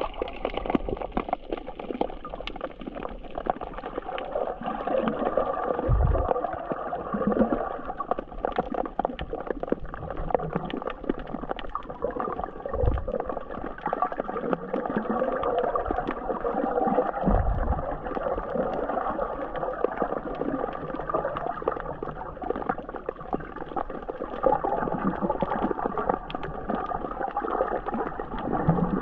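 Muffled gurgling and sloshing of seawater around a camera held underwater, with a few dull low thumps.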